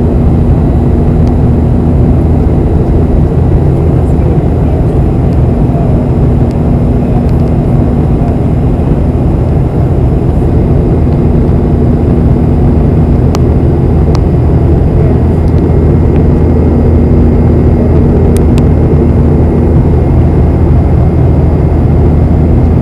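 Airliner cabin noise in flight: a loud, steady drone of the jet engines and airflow with a constant low hum, unchanging throughout, with a couple of faint ticks.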